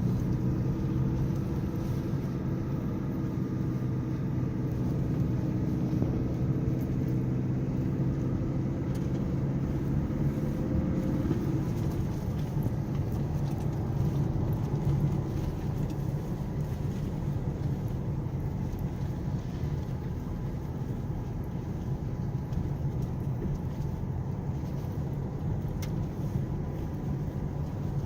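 Off-road vehicle's engine running as it drives a dirt track, with low road rumble. The engine note shifts during roughly the first 11 seconds, then settles into a steadier rumble.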